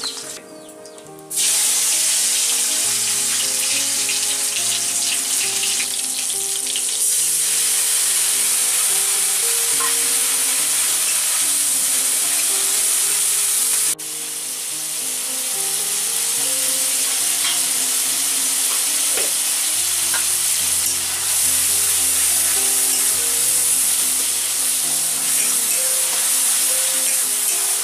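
Tomato and yellow spice paste sizzling steadily in a steel wok over a wood fire, starting about a second in, with a short break about halfway. A metal spatula stirs it near the end, and background music plays throughout.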